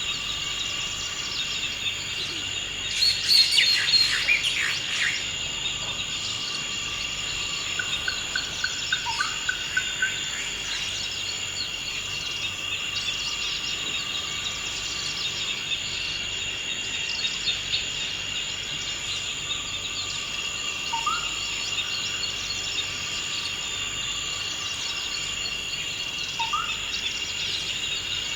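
Forest insects, likely crickets, keep up a steady high chorus on several fixed pitches, with birds calling over it. About three seconds in comes the loudest event, a short burst of bird song. Later there is a quick trill of evenly spaced notes and two brief rising chirps near the end.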